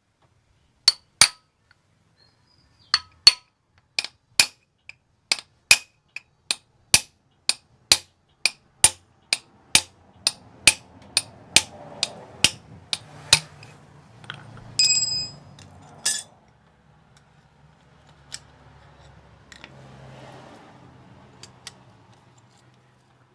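Sharp metallic clicks, scattered at first and then settling into a steady rhythm of about two a second, followed by a louder ringing metal clink and a final knock. A faint low hum runs under the second half.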